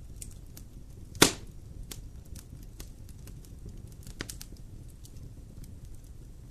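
Wood campfire burning and crackling, with scattered small pops over a low steady background. One loud, sharp pop about a second in and a smaller one about four seconds in.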